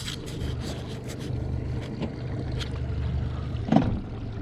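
Patrol boat's motor running with a steady low hum. A few light knocks come in the first second, and a brief pitched sound comes near the end.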